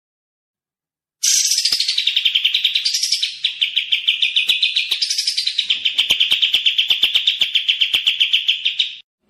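A small songbird singing one long, fast, rolling trill of rapidly repeated notes. It starts abruptly about a second in and cuts off just before the end.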